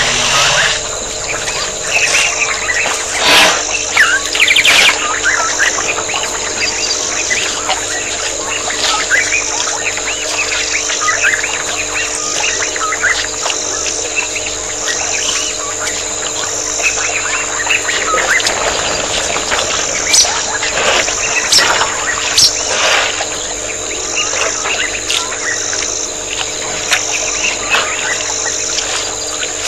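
Birds chirping with many short, repeated calls, over a steady hum, with a few brief clicks.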